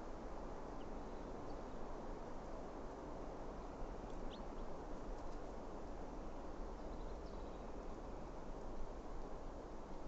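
Steady background noise of a forest, with a few faint, short, high bird chirps.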